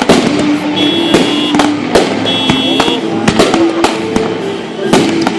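Fireworks display: many sharp bangs and cracks in quick succession.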